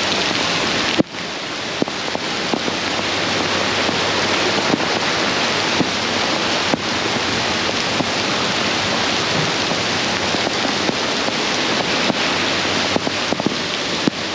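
Heavy rain pouring down, a steady loud hiss with scattered sharp ticks.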